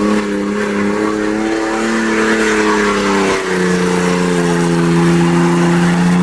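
Loud car or truck engine held at high revs, a steady droning note that drops a little in pitch about three and a half seconds in.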